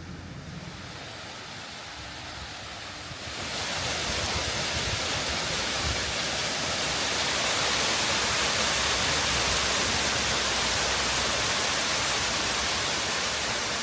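Steady rushing noise with no pitch or rhythm, which gets louder about three seconds in and then holds level.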